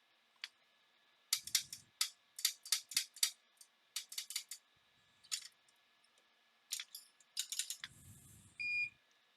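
Irregular clusters of sharp light clicks and ticks from small soldering tools being handled at the bench, then a short electronic beep near the end, over the faint steady hum of a fume extractor fan.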